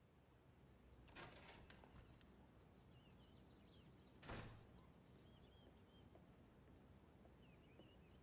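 Faint, quiet ambience with small birds chirping now and then, a soft swish about a second in and a louder brief swish about four seconds in.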